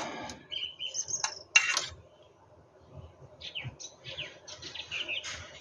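Small birds chirping and twittering in quick high calls, with a sharp click about one and a half seconds in.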